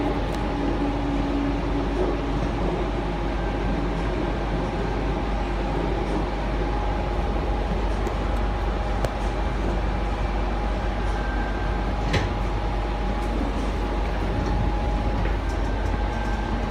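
Sydney Trains Tangara electric train: a steady hum with a constant whining tone and one sharp click about twelve seconds in.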